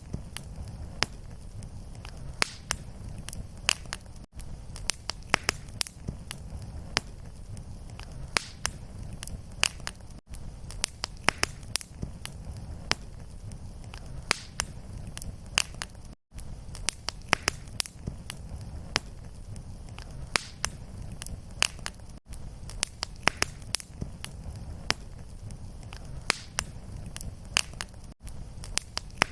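Wood fire crackling: irregular sharp pops and snaps over a steady low rumble of flame, with a brief dropout about every six seconds where the looped recording starts over.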